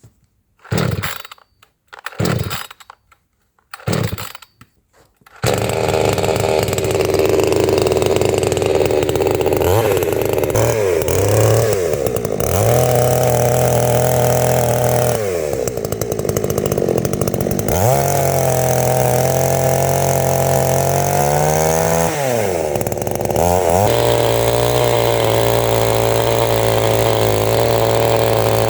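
Two-stroke chainsaw pull-started: three short rasps of the starter cord, then the engine catches about five seconds in and runs loudly, its pitch dropping and climbing back several times as it is revved and eased off.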